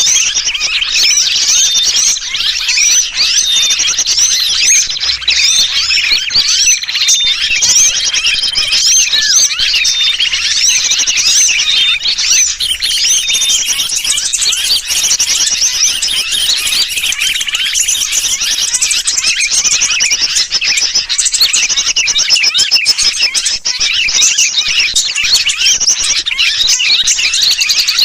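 Bird-lure recording: a dense, continuous chorus of small birds calling noisily, mixed with the distress calls of a sooty-headed bulbul (kutilang). A short high peep repeats about once a second through the first half.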